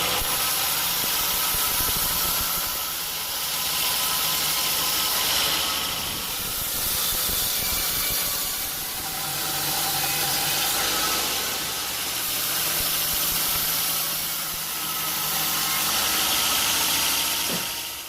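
Sawmill machinery running: a steady engine hum under a loud hiss that swells and eases every few seconds, fading out near the end.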